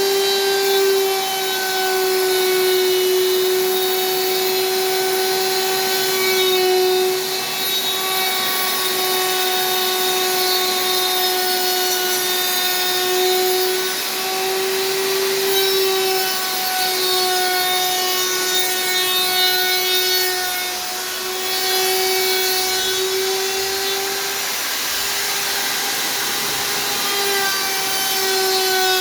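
Electric woodworking power tool running steadily with a high motor whine, over the hiss of a blade or cutter working wood.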